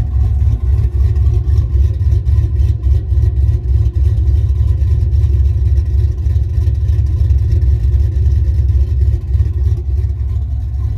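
Truck engine running steadily with a deep, loud low rumble.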